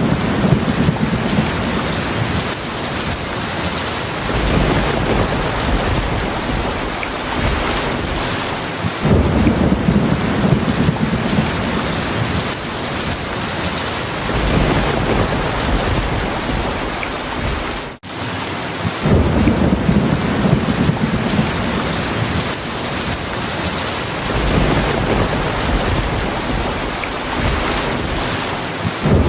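Heavy steady rain with low rolls of thunder that swell and fade every few seconds. There is a split-second drop-out a little past the middle.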